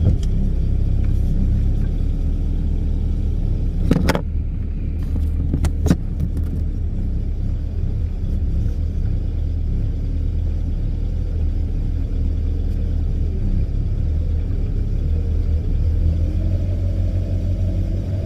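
Boat engine running at low speed, a steady low rumble, with two sharp knocks about four and six seconds in. Near the end its pitch starts to rise.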